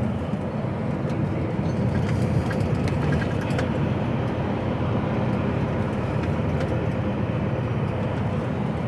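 Lorry engine and road noise heard inside the cab of an HGV on the move: a steady low rumble, with a few light rattles a couple of seconds in.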